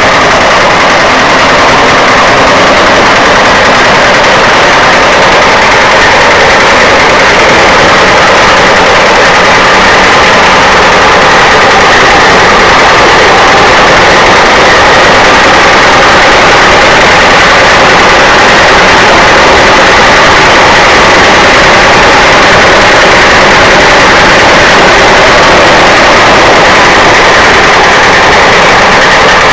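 Hatz E79 single-cylinder diesel engine on a cement mixer running steadily, loud and close.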